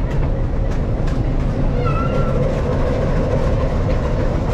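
Steady low rumble of a train, with light clicks every so often and a brief high, wavering squeal about two seconds in.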